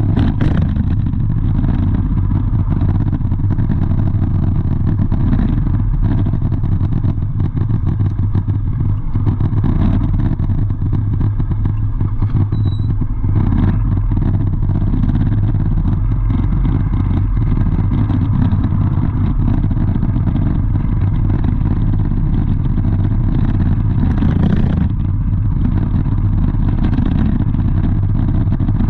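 A motor vehicle's engine running steadily, heavy and low, with a brief clatter just after the start and another near the end.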